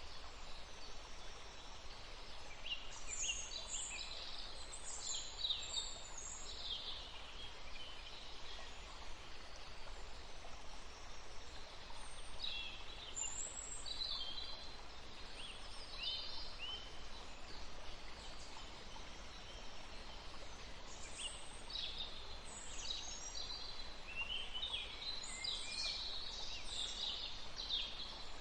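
Small birds chirping in bouts of quick, high chirps over a steady faint background of outdoor noise.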